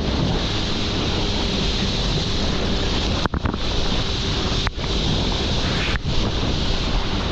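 Steady rush of wind on the microphone and water, with a jet ski's engine faintly underneath. The sound drops out briefly three times in the second half.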